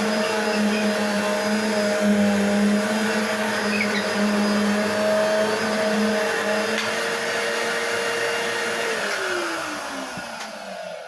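Eureka Whirlwind bagless vacuum cleaner running steadily, with a few faint squeaks from its wheels. About nine seconds in it is switched off, and the motor winds down with its pitch falling.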